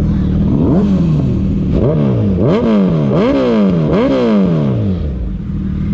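Third-generation Suzuki Hayabusa's 1340 cc inline-four, breathing through a full-system Brocks exhaust, revved in a string of throttle blips. There is one rise a little under a second in, then four quick blips in a row, the pitch climbing and falling back each time.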